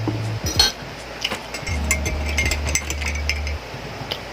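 Light clinks and rattles of a drink container and tableware being handled, with a low hum in the middle lasting about two seconds.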